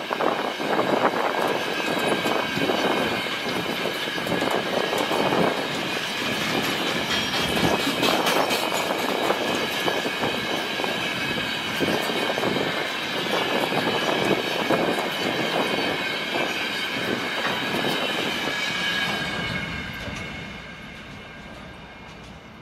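Freight train wagons (tank cars and open wagons) rolling past, the wheels clattering over the rail joints, with steady high squealing tones riding over the rumble. The sound fades away near the end as the tail of the train recedes.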